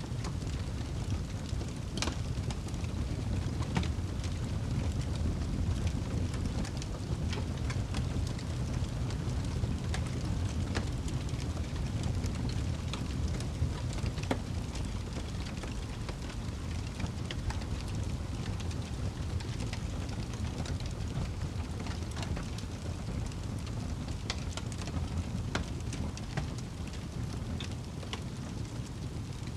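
Wood fire burning in a fireplace: a steady low rumble from the flames with frequent sharp crackles and pops.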